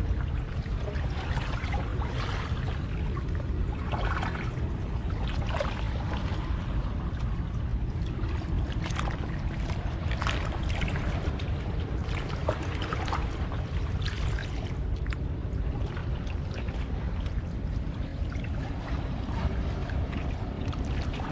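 Steady low rumble of wind and surf, with scattered short knocks and crackles over the top.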